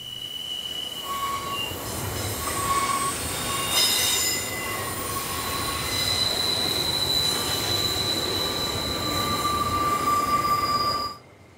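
Freight train of SCT container wagons rolling past, its wheels squealing on the curved track: several high, steady squeals that come and go over the rolling noise of the wagons. The sound cuts off suddenly near the end.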